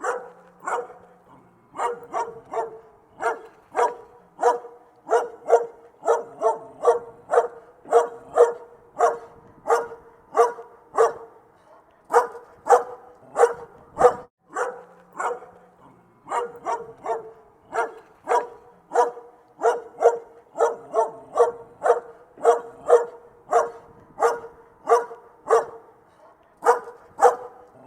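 A dog barking over and over in short, sharp barks, about two a second, with a brief pause about halfway through.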